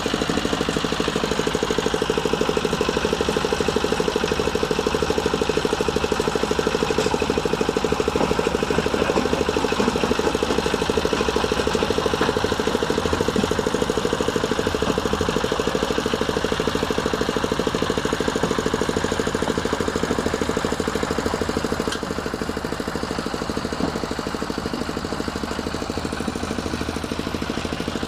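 Changchai L24 single-cylinder diesel engine running steadily under load, driving a stone crusher, with a fast even beat. It drops slightly in loudness about 22 seconds in.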